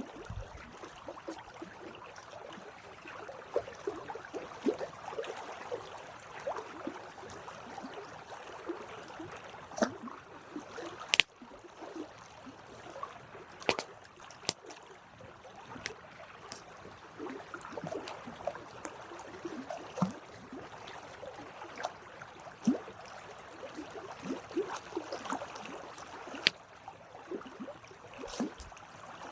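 Campfire burning: a soft steady hiss with irregular crackles and pops, and a few sharp, louder snaps of the wood, the loudest about eleven seconds in.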